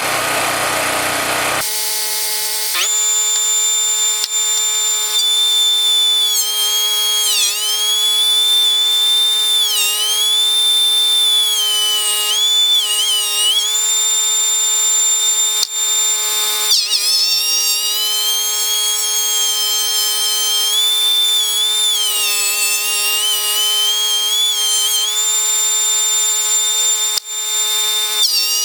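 Electric power tool running on rough lumber: a high motor whine that repeatedly sags in pitch as it bogs under load and then recovers. A rougher machine sound gives way to the whine about two seconds in.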